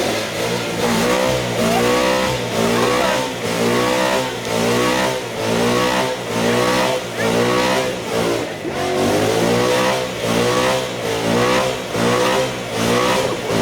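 Ford Mustang engine revving hard in a steady up-and-down rhythm, a little more than once a second, as in a burnout, with a steady hiss of tyre noise behind it.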